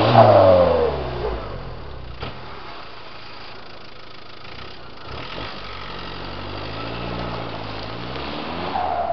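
Volkswagen Passat 3C 2.0 TDI four-cylinder diesel on a custom exhaust, blipped with no load. The revs fall back in the first second, it idles for a few seconds, then the revs climb again and drop off right at the end.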